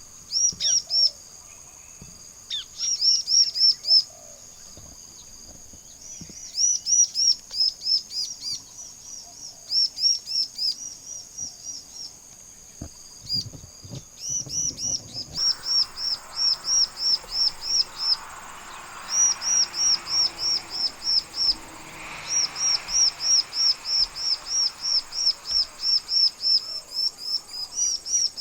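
Bar-winged prinia (ciblek) singing loudly: repeated bursts of rapid, high, shrill notes, about four a second, with short pauses between bursts. A steady high insect buzz runs underneath, and a soft hiss comes in about halfway.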